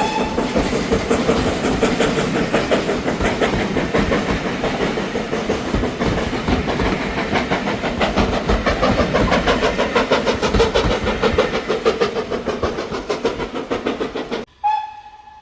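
Steam train running past at speed, making a loud, fast, even rhythm of beats, with the tail of a whistle just at the start. The sound cuts off abruptly near the end, and a steam whistle note sounds briefly and fades.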